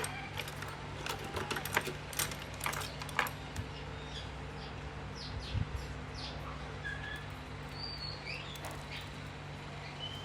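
A few sharp metallic clicks and clinks of small clock parts being handled in the first few seconds, over a steady low hum; birds chirp in the background through the second half.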